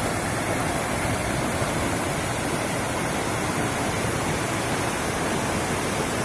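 Waterfall on a mountain river, its falling water making a steady, even rush.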